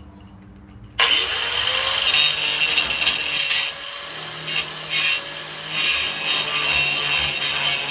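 Angle grinder starting about a second in and grinding welded sheet steel. The sound surges and dips as the disc is pressed on and eased off.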